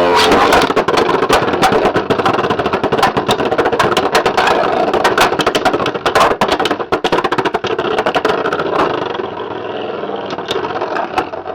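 Beyblade X spinning tops whirring and grinding in a stadium, with many sharp clacks as they collide. The noise eases a little after about eight seconds and dies away near the end.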